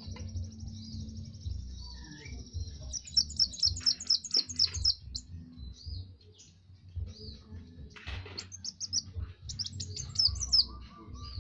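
Kowul (kolibri wulung) sunbird singing: a thin, high, buzzing trill, then quick bursts of sharp high chirps about three seconds in and again near the end.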